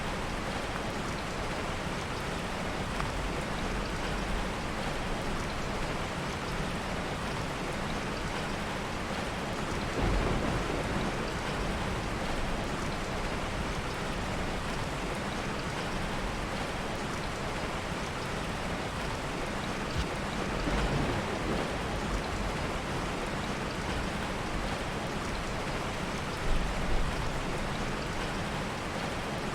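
Steady heavy rain, with soft rolls of thunder swelling about a third of the way in and again about two-thirds through. Two short pops near the end.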